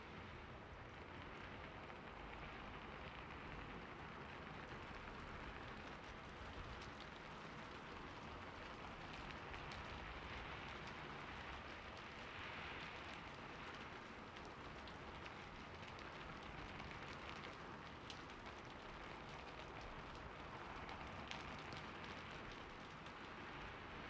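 Steady rain falling on a roof: an even hiss with scattered sharp drop ticks.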